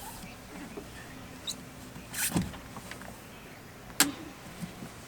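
A few scattered knocks and a sharp click over a faint steady background, the loudest knock a little over two seconds in and the click about four seconds in.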